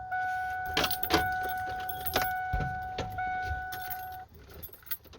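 A truck's dashboard warning tone sounds steadily at one pitch and cuts off about four seconds in, with a few sharp metallic clicks over it like keys jangling on the ignition.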